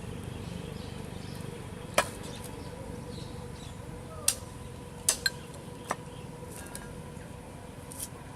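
About half a dozen sharp clinks and knocks at irregular intervals, like pots and metal utensils being handled, over a faint steady hum.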